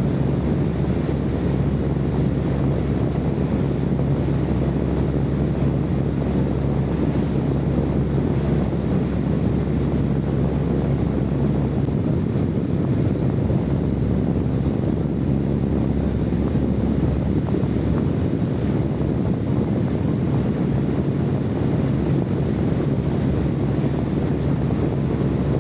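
Steady, unchanging live-recorded white noise: an even rushing sound, heaviest in the low range, with a constant low hum beneath it.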